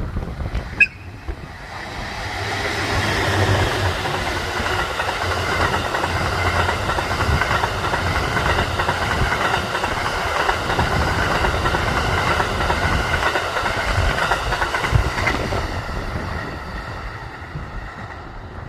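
Cassiopeia Kiko, a locomotive-hauled sleeper train of E26 series cars, passing through the station without stopping. The rumble of its wheels on the rails builds over the first couple of seconds, holds for about twelve seconds as the cars go by, then fades away.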